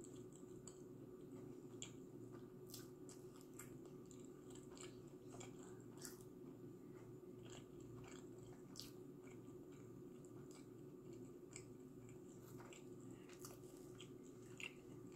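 Faint, close-up chewing of pizza crust, with scattered small crunches and mouth clicks over a low steady hum.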